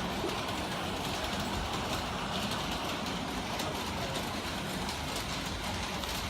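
G scale model train running along its track: a steady rumble of wheels on the rails.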